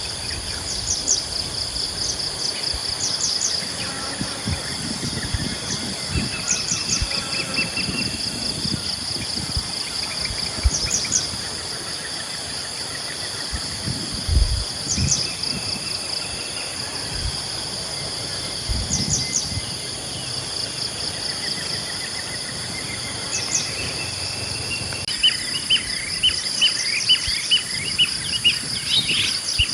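Early-morning insect chorus, a steady fast-pulsing trill, with scattered bird chirps over it. In the last few seconds a bird repeats a short call about twice a second. A few soft low thumps come and go in the middle.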